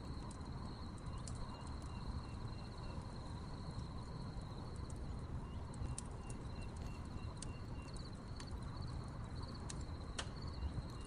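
Wood campfire crackling with scattered sharp pops, one louder snap about ten seconds in, over a low steady rumble. Crickets chirp steadily in a high pulsing trill, with a second, lower chirping series coming in runs.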